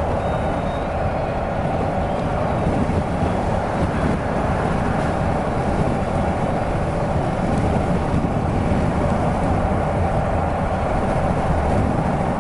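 Steady vehicle running noise, a constant low rumble with a hum like a car driving on the road.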